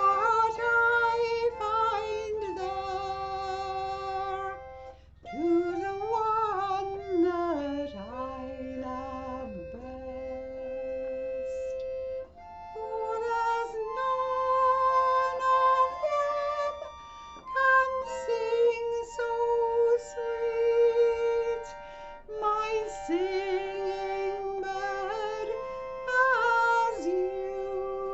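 Live folk music: a melody line of held and wavering notes over instrumental accompaniment, with some plucked string.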